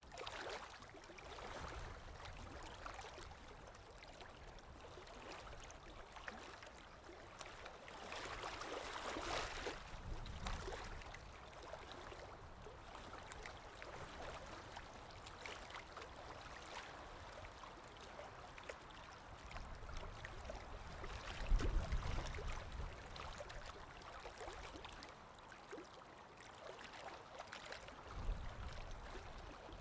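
Running water of a forest stream, a steady rushing and gurgling that swells for a couple of seconds, with a few low rumbles about two-thirds of the way through and near the end.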